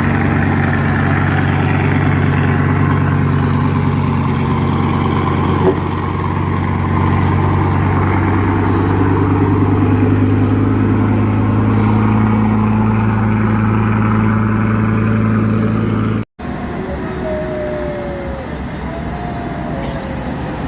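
Truck diesel engine running steadily under load, its pitch holding level, with a single sharp tick about six seconds in. About sixteen seconds in the sound cuts off abruptly to quieter engine noise with a few short whistled notes that glide up and down.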